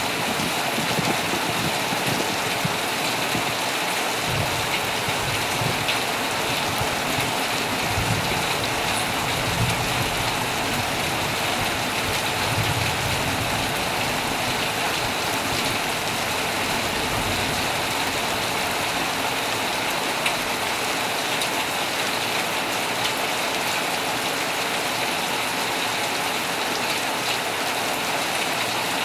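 Heavy rain falling steadily on a tent, a dense even hiss. A low rumble swells and fades under it through the middle.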